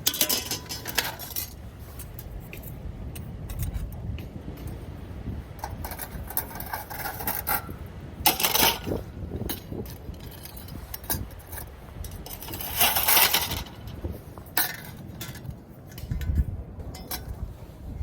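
Small hard objects clinking and scraping as they are handled, in a few short clattering bursts over a steady low rumble.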